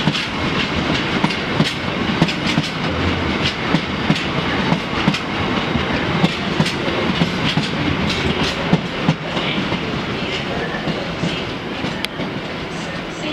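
A train running on rails, its wheels clicking repeatedly over rail joints against a steady rumble.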